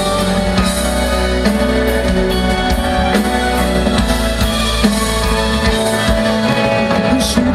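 Live band playing an instrumental passage of a ballad, with sustained chords over a steady drum beat; no voice.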